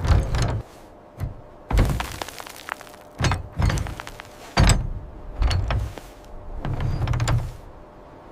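A series of heavy, irregular thuds, each with a crunching edge, coming every half second to second and a half.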